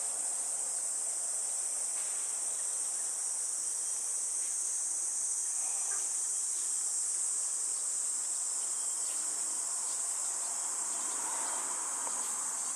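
Steady high-pitched insect chorus that holds an unchanging drone throughout.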